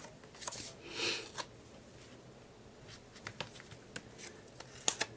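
Printed paper pages and tags being handled: soft rustles and scattered light taps, with one sharper click near the end.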